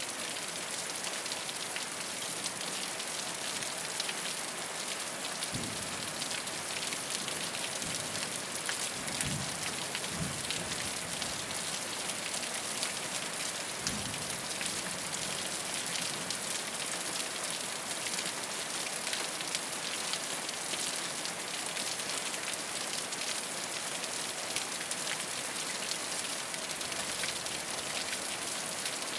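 Steady rain falling on a rooftop: a dense, even patter of drops. A few soft, low thumps stand out around the first half.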